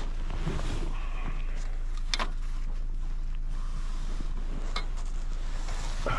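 A vehicle engine idling steadily in the background, with a couple of short sharp scrapes or knocks, one about two seconds in and one near five seconds.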